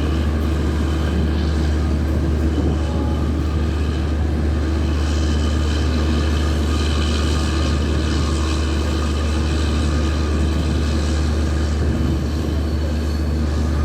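Diesel generator sets of a train's generator car (power car) running, a heavy steady engine drone with a strong low hum that holds even throughout.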